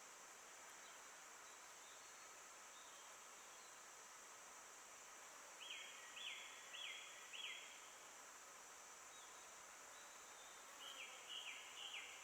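A forest bird sings two short phrases, each of four quick repeated notes that slur downward, about halfway through and again near the end. Under it runs a faint steady high-pitched hiss of forest background.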